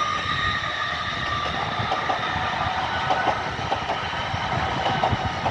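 LNER class 801 Azuma electric train pulling out of the station, its wheels clattering irregularly over the rail joints and points, with a steady high whine that fades about two seconds in.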